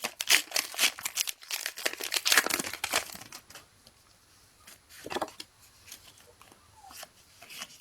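Foil wrapper of a Pokémon TCG booster pack crinkling and tearing as it is opened, a dense crackle for the first three seconds, then one short rustle about five seconds in and faint handling of the cards near the end.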